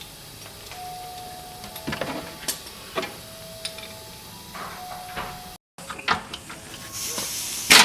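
Scattered clicks and metal knocks from hand tools working on a car's front K-member, with short squeaky tones between them. The sound cuts out for a moment a little past halfway, and grows louder and hissier near the end.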